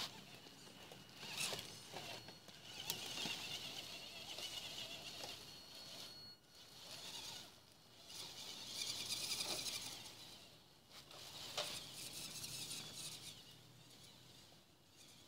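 Radio-controlled off-road truck driving: a high-pitched whine of the motor and gears that comes and goes in bursts, loudest around three to five seconds in and again around nine to ten seconds, with scattered pattering and a few sharp clicks.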